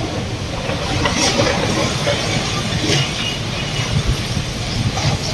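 Strong storm wind and rain making a steady rushing noise, with a few brief sharper hisses.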